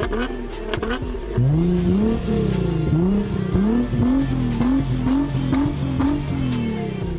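High-performance car engine revved repeatedly, its pitch climbing and dropping in quick succession. It gets louder about a second and a half in.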